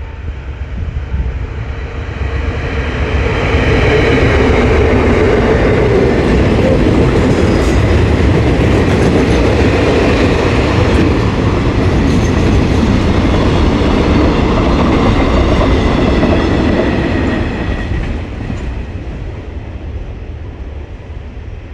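Freight train of container flatcars rolling past close by, its wheels clattering over the rail joints. It grows louder a few seconds in, holds steady, then fades over the last few seconds.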